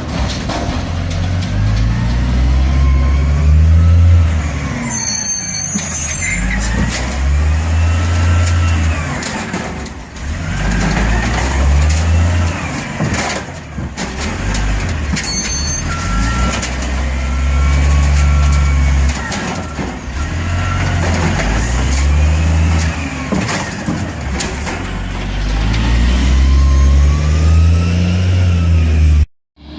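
Garbage truck engine revving up and dropping back again and again, about every four seconds. A run of short beeps sounds about two-thirds of the way through, and the sound cuts off abruptly near the end.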